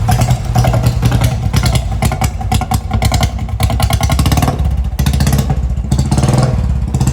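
Royal Enfield Bullet motorcycle engine running steadily with a rhythmic low beat, just started for the ride.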